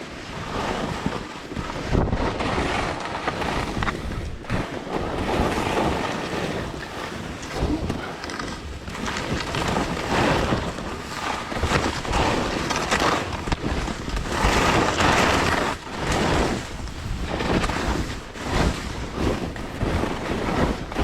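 Wind rushing over a GoPro's microphone while skiing downhill, with the skis scraping across the snow. The noise swells and fades every second or two as the turns go by.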